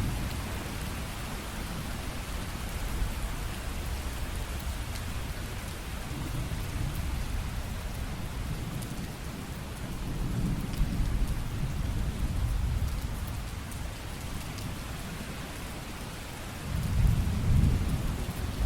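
Steady heavy rain hissing, with low rolls of thunder swelling about ten seconds in and again, louder, near the end.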